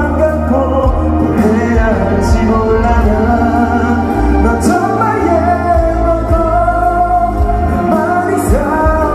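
Live pop song: a singer's voice over band backing music, with a cymbal crash every few seconds.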